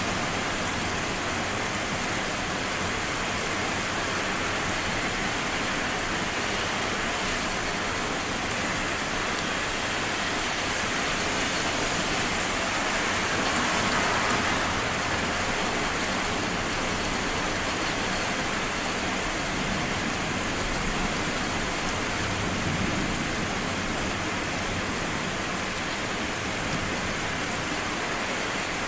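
Steady rain from a summer thunderstorm, an even hiss that swells slightly about halfway through; no distinct thunderclap stands out.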